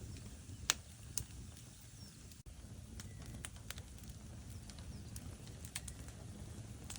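Logs burning in a fireplace: irregular sharp crackles and pops over a low, steady rumble of flames, the loudest pop coming about a second in.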